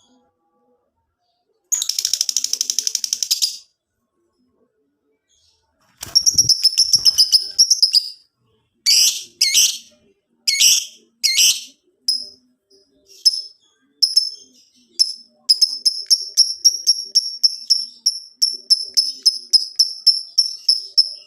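Lovebird singing 'ngekek': a fast rattling trill about two seconds in, then a series of sharp high chirps, settling about halfway through into a long run of rapid repeated calls, about three a second.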